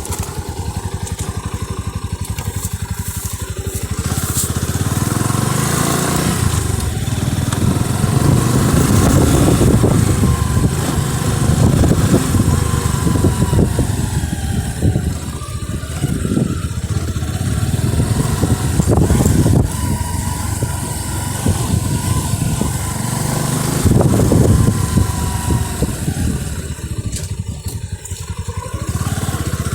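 Motorcycle engine running under way, the note rising and falling with the throttle.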